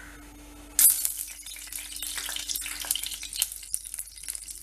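Butter and oil sizzling in a hot pan, starting suddenly about a second in and crackling and spattering with many sharp pops.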